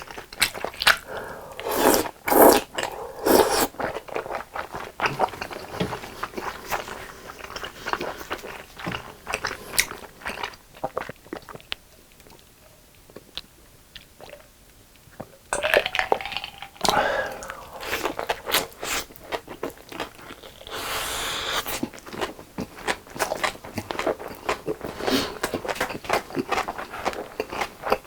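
Close-miked eating sounds: biting and chewing food with wet mouth clicks, pausing for a few seconds around the middle before the chewing resumes.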